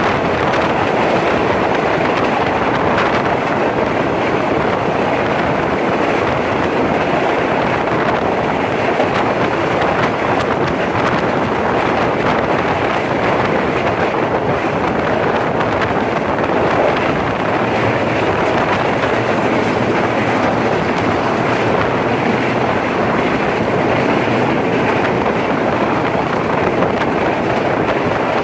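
Udaya Devi express train running along the line, heard from on board: a steady rumble and rush of wheels on track mixed with wind buffeting the microphone.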